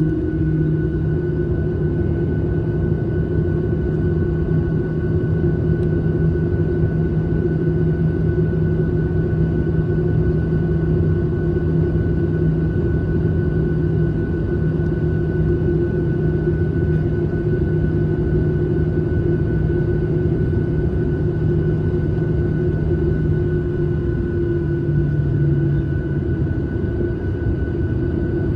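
Airliner cabin noise: a steady drone of the jet engines and rushing air, with a constant low hum and a fainter high whine.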